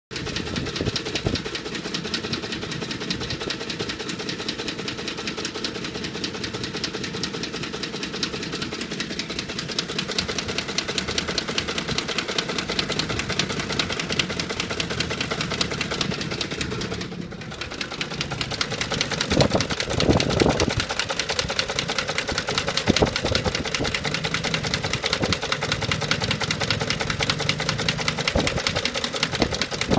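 Ford 5.4L V8 of a 2009 F-150 idling warm with a rapid, steady knocking running through the idle. The level dips briefly a little past halfway, then comes back louder. This intermittent warm-idle knock goes away when the engine is revved; the truck has logged a P0022 cam-timing code once, even after its VCT solenoids were replaced.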